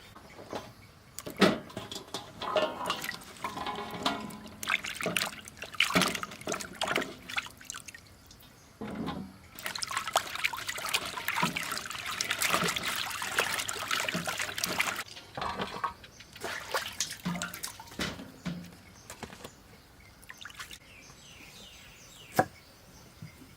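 Water pouring and splashing for several seconds in the middle, amid scattered knocks and clatter of food preparation before and after.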